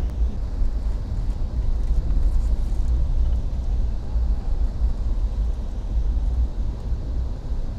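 Passenger train rolling along the track, heard from inside the car: a steady low rumble.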